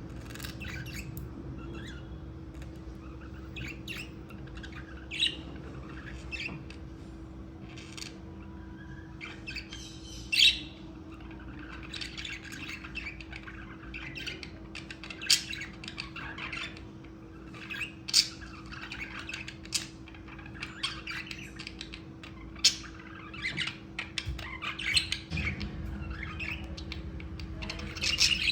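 Pet budgerigars chattering: a busy run of short chirps and squawks, with a few sharper, louder calls standing out now and then.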